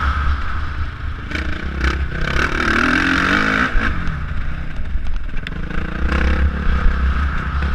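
Motocross bike engine revving up and down as it is ridden, heard close over heavy wind rumble, with scattered clatter of stones or dirt.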